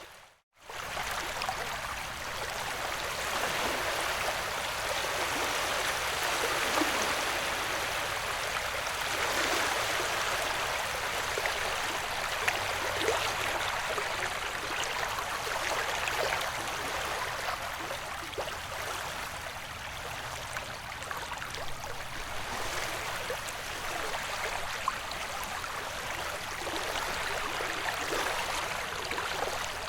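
Recorded ocean-wave ambience used as a white-noise bed: an even wash of water noise that swells and eases slowly. It drops out briefly about half a second in.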